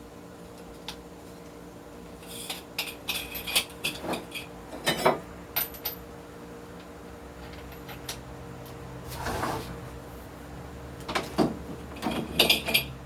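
Metal objects clinking and clattering as they are handled, in two bursts of sharp ringing knocks, over a faint steady hum.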